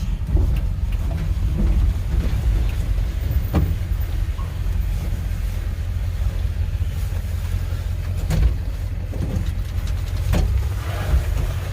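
Steady low rumble of a vehicle on the move, with a few scattered knocks and rattles.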